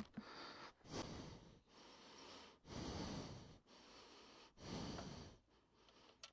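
A person breathing audibly and slowly near the microphone: soft breaths in and out, each lasting about a second, three breaths in all.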